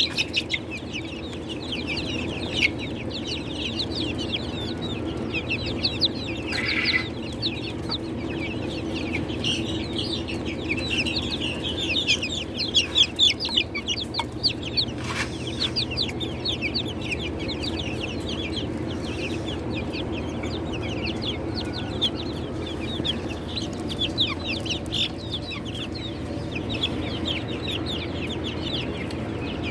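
A brood of chicks peeping continuously: many rapid, high, overlapping chirps, over a steady low hum.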